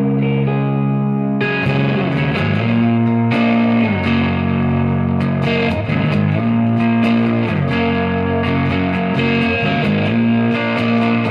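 Electric guitar (a Gibson Les Paul with humbuckers) played through a Third Eye overdrive pedal into a Marshall amp, giving an overdriven tone. It plays ringing, sustained notes and chords, sliding between some of them. The tone turns brighter about a second and a half in, and the picking gets busier later on.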